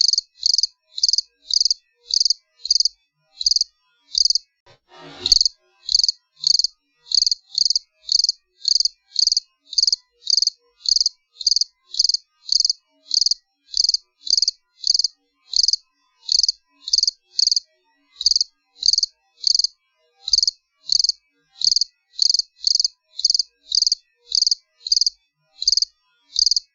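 A cricket chirping steadily, short high-pitched chirps at about two a second with a few brief gaps. About five seconds in, a brief sweep falls from high to low pitch.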